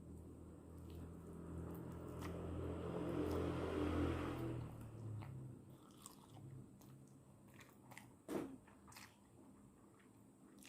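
Close-miked eating sounds of instant noodles being chewed, with wet mouth noises that swell to a peak about four seconds in and then fade. A few small clicks of the mouth or utensils follow near the end.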